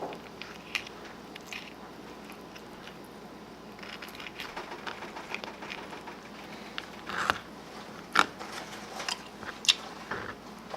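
Small fillet knife working breast meat off a snipe's rib cage on a cutting board: faint scraping with scattered small crunches and clicks, a few sharper clicks in the second half.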